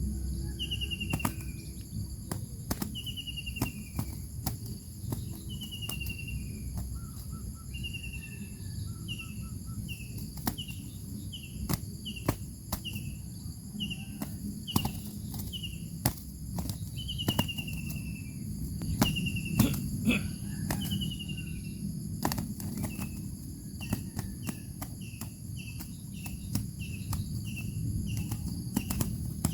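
A songbird repeating short, descending whistled notes, about one every second at first and then shorter and quicker over the last few seconds. Insects drone steadily and high underneath, with scattered sharp clicks.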